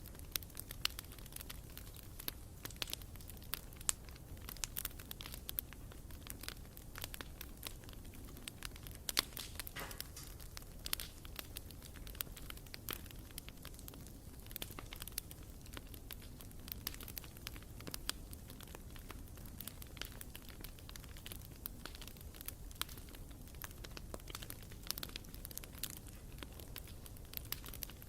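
Bonfire burning: wood crackling and popping in quick, irregular snaps over a low, steady rumble of the flames.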